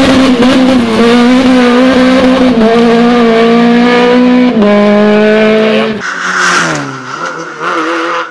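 Rally car engine held at high revs very close by, with brief dips, then about six seconds in the sound drops sharply and fades away with a falling pitch as the car goes past.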